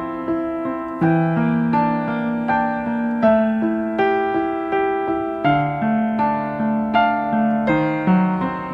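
Background piano music: a calm melody of single notes and chords, each note struck and fading.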